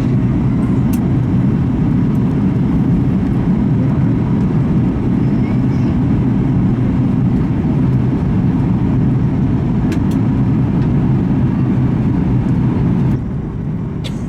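Steady cabin noise of a Boeing 737 MAX 8 in flight: the deep rumble of its engines and the air rushing past the fuselage, heard from inside the passenger cabin. The noise drops abruptly to a lower level about a second before the end.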